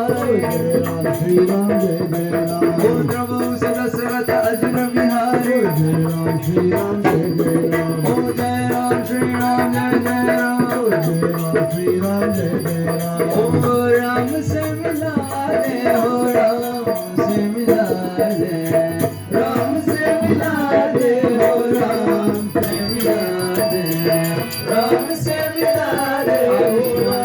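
Arti, a Hindu devotional song, sung with melodic accompaniment and steady rhythmic hand percussion.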